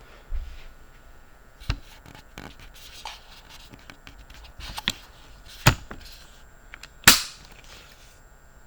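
A series of irregular sharp knocks with faint scraping between them, about six in all; the loudest comes near the end and dies away briefly.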